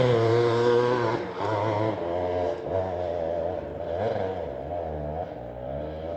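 Off-road vehicle's engine pulling up a steep dirt hill climb. It runs at steady high revs at first, then the revs rise and fall as the throttle is worked.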